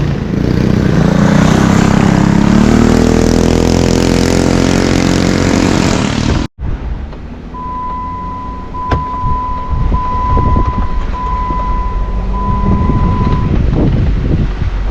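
A motor vehicle's engine pulling under load, its pitch climbing steadily for about six seconds. It cuts off suddenly, and a quieter engine rumble follows with a steady high beeping tone that sounds in long pulses, about one a second.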